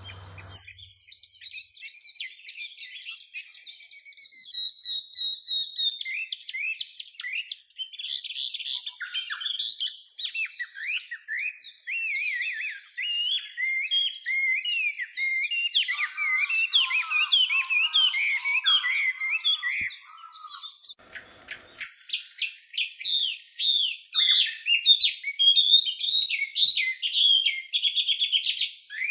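Chinese hwamei (Hwamei laughingthrush) singing a long, varied song of quick whistled phrases and slurred notes, breaking into fast repeated trills for the last several seconds.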